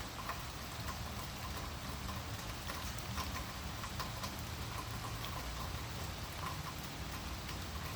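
Steady rain falling, with many small ticks of drops hitting surfaces.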